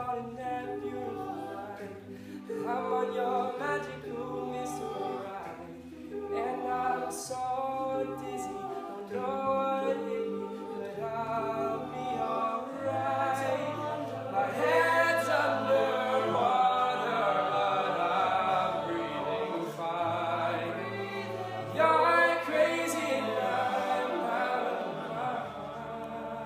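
Male a cappella group singing in close harmony, with a bass voice holding long low notes beneath the chords.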